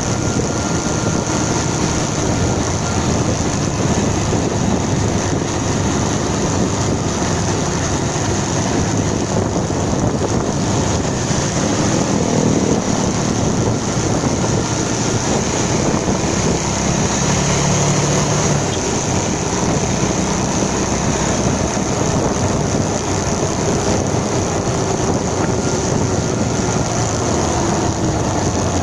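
Motorcycle on the move: a steady rush of wind on the microphone mixed with engine and road noise. The engine's pitch drifts up and down a little now and then.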